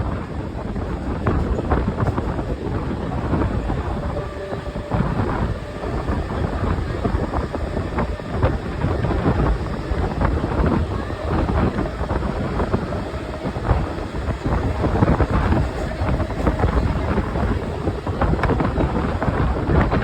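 Mumbai suburban local train in motion: a loud, steady rumble with wind rushing over the microphone.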